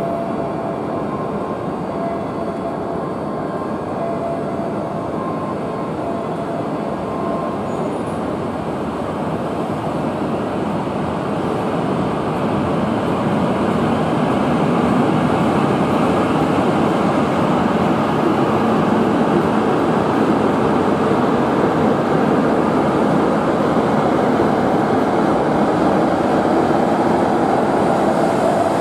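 E5-series Shinkansen train pulling out along the platform. Its running noise grows louder from about halfway through, and a motor whine rises in pitch near the end as it gathers speed.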